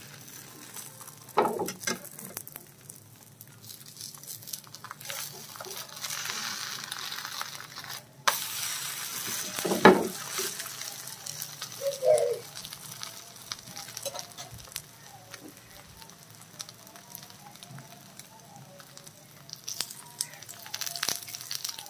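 Rice-flour roti with chicken qeema frying in a non-stick pan: a steady sizzle, with a few scrapes and knocks of a metal spatula as the roti is lifted and turned over, the loudest knock about ten seconds in.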